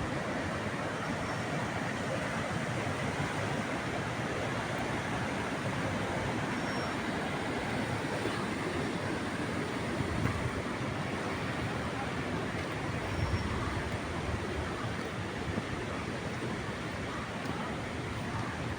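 Steady rush of a waterfall: falling water making an even, unbroken noise, with a few brief low gusts.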